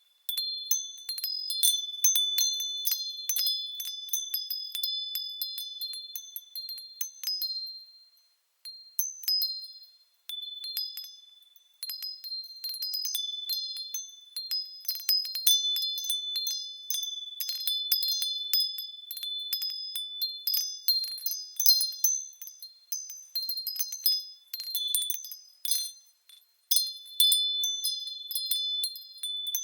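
Japanese wind bells (fūrin) tinkling irregularly as the wind swings them: a few clear, high ringing notes struck over and over, dying away briefly a few times before starting up again.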